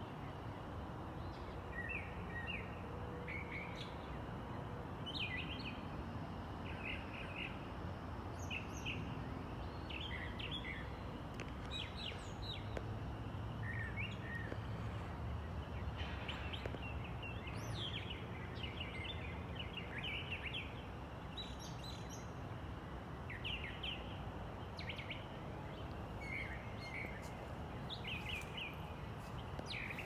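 Early-morning birds calling: many short chirps and call notes, thickest about halfway through, over a steady low background noise.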